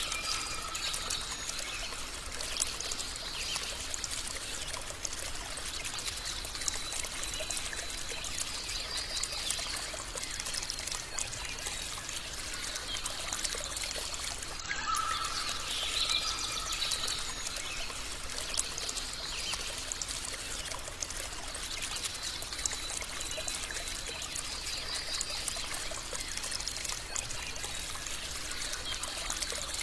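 Small stream trickling and splashing steadily over stones, with a few faint bird calls now and then.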